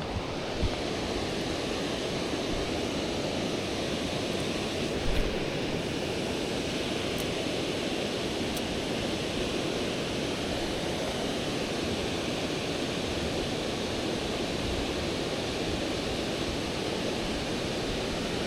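Steady rush of river current running over rocks, with two brief thumps, about half a second and five seconds in.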